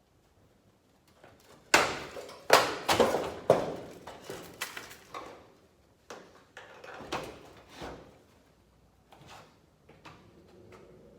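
A caravan's lower exterior panel being pulled and worked free of the body: a run of loud clatters and scrapes early in the stretch, then fainter knocks and scrapes.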